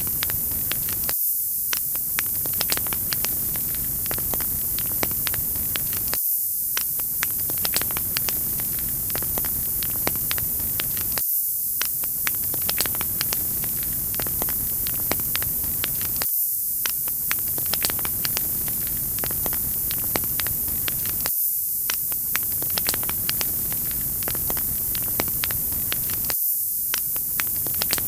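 Wood fire crackling: a steady hiss with many small sharp pops. The same few seconds repeat about every five seconds, with a brief drop in the low sound at each join of the loop.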